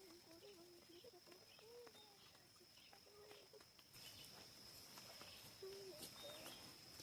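Faint forest ambience: low, wavering bird calls and short high chirps over a steady high-pitched insect drone, with a few soft clicks.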